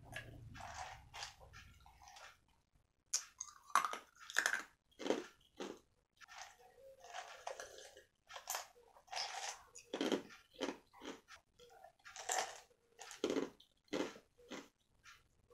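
A person chewing and crunching crispy fried chicken close to the microphone, in irregular crackly bites and chews with short pauses. A low rumble fades out in the first two seconds.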